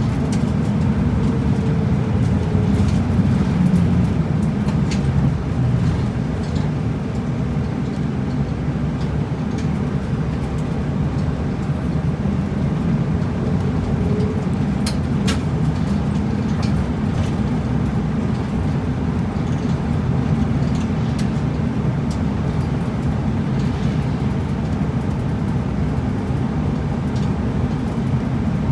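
Route bus driving along, heard from inside the cabin: steady engine and road noise, with a few sharp rattles or clicks, one about halfway through.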